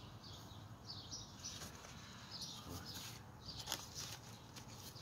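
Small birds chirping, short high notes repeating every half second or so, with a few faint clicks.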